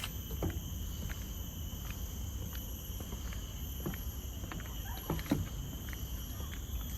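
Steady high-pitched drone of forest insects, several even tones at once, over a low rumble, with a few soft thuds scattered through.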